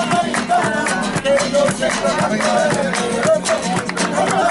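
Live flamenco-style music: an acoustic guitar strummed briskly, with a voice singing a wavering melody over it.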